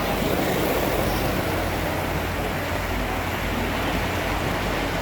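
Diesel locomotives idling: a steady low rumble under an even wash of outdoor noise.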